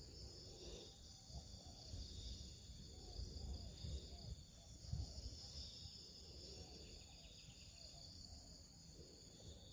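Insects calling steadily in several high pitches, over a low rumble.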